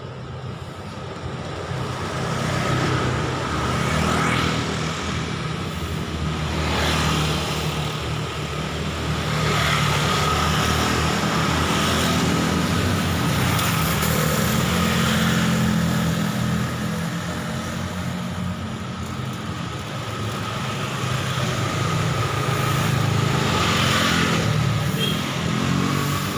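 Road traffic: a steady stream of passing vehicles, engine hum and tyre noise growing louder and fading as each one passes close.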